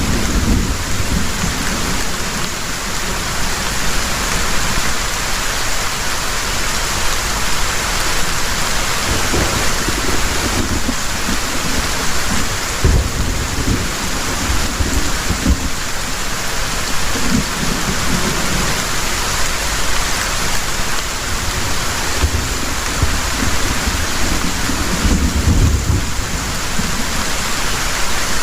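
Heavy rain falling steadily, a dense, even hiss, with low rumbles of thunder rising and fading several times.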